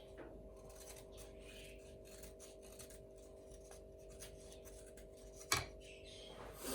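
Faint scratching and rubbing of small hand work, over a steady low hum, with one sharp knock about five and a half seconds in and a softer one near the end.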